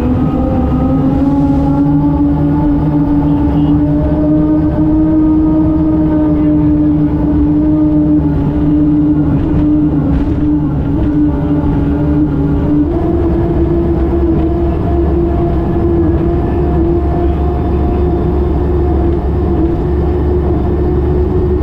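A speedboat's engine running hard at a steady, high speed. Its pitch creeps slowly upward, then steps up once about 13 seconds in, over a heavy low rumble.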